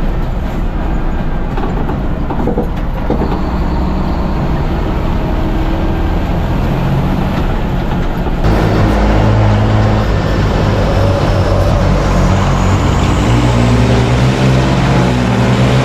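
Super truck's diesel engine running hard at racing speed, its pitch stepping up and down. About eight and a half seconds in the sound changes abruptly, becoming louder and brighter.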